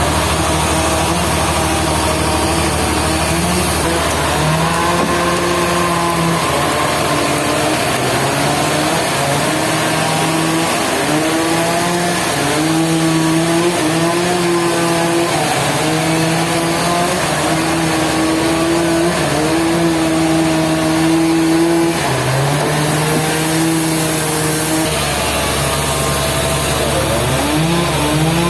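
Sawmill engine running under changing load, its pitch stepping up and sagging back every second or two.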